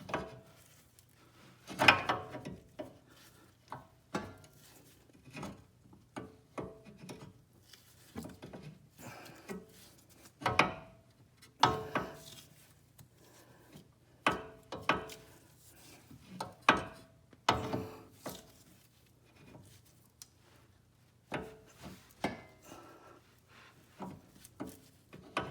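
Irregular metallic knocks and clanks, a dozen or more with short rings after some, the loudest about two seconds in, as the inner end of a 2011 Mercedes C300 4Matic front axle is worked and pushed into the front differential to seat it.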